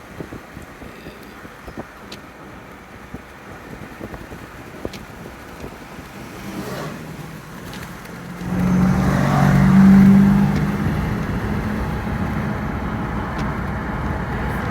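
Car road noise heard from inside a moving car. About eight seconds in, engine and tyre noise swells sharply, peaks with a low engine drone a couple of seconds later, then settles into steady, louder driving noise.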